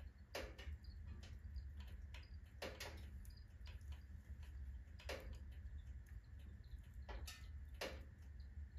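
Firewood burning in a wood-burning stove with a full firebox, crackling with irregular pops, a handful of them louder than the rest, over a steady low rumble.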